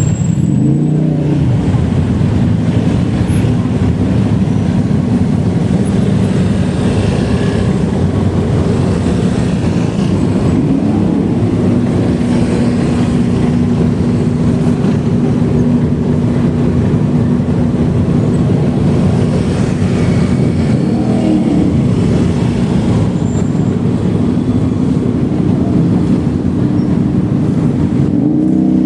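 Steady low rumble of road and wind noise from a moving bicycle ride, with a steady hum and motor-vehicle traffic sounds; short rising-and-falling pitch sweeps about a second in, around two-thirds through and near the end.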